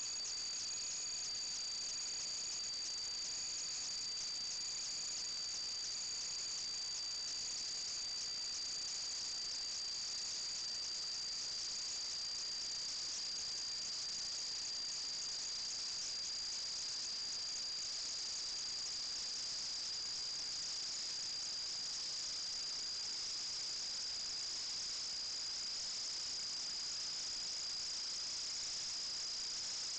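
Crickets chirring in a steady, high-pitched continuous trill that does not let up.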